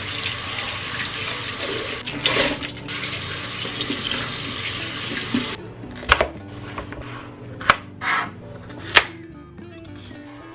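Water running from a kitchen tap into a sink, a steady hiss that cuts off abruptly about five and a half seconds in. After it come several sharp, separate knocks.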